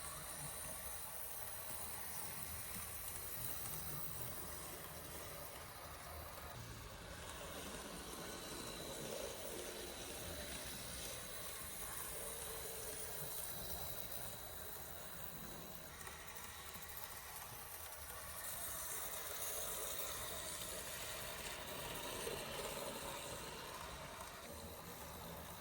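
Faint steady whir and hiss of a Z-scale E8 model locomotive running along its track, with a thin high steady tone, swelling slightly for a few seconds near the end.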